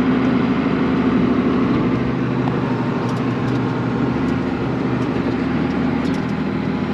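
Valmet tractor's diesel engine running steadily under load while powering a snowblower.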